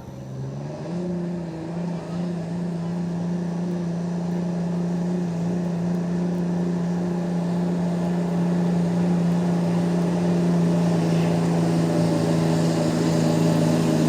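Truck engine held at high revs under load, pulling a sled down the track. Its pitch steps up about a second in, then holds steady as it slowly grows louder.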